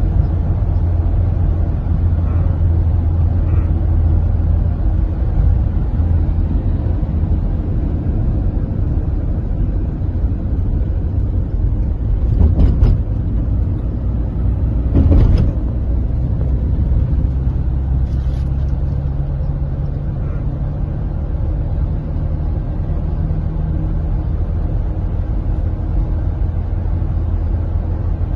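Steady low rumble of a running vehicle engine, with two short knocks near the middle.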